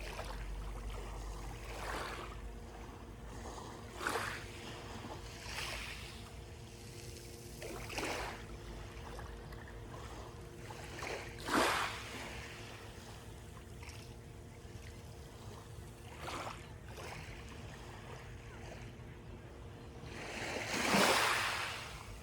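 Small sea waves breaking and washing onto the shore one after another at uneven intervals of a few seconds, over a low steady rumble of surf; the largest wave comes near the end.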